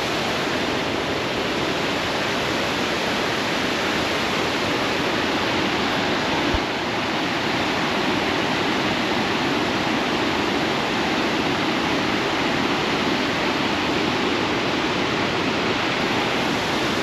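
The Pliva waterfall in Jajce pouring over its drop, a loud, steady, even rush of falling water.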